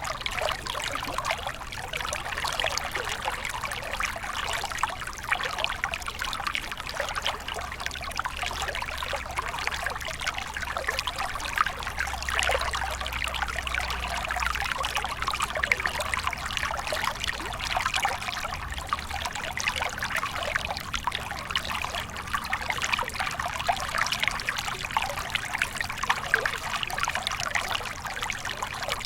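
Stream water flowing and trickling steadily, a continuous babble of small splashes.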